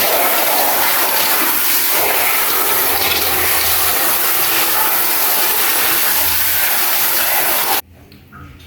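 Water gushing steadily from a tap, cut off abruptly near the end.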